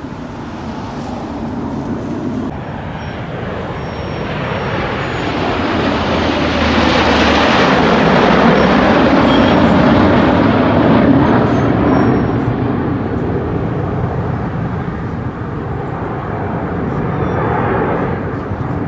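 Aircraft flying past overhead at an air show: a steady noise that builds to a peak about halfway through and then fades, with a smaller swell near the end.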